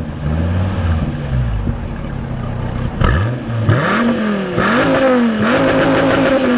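2013 SRT Viper's 8.4-litre V10 being revved, its pitch climbing and falling several times, with short dips around the middle, then held high near the end.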